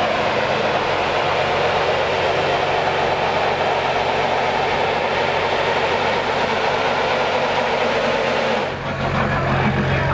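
A truck engine running loudly and steadily. About nine seconds in there is a brief dip, after which the engine note changes to a steadier low hum.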